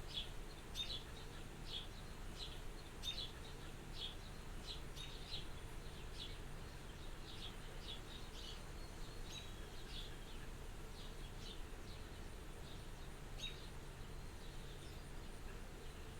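Small birds chirping outside the window, short high chirps coming every half second or so, thinning out after about eleven seconds, over a soft steady background of wind and a faint low hum.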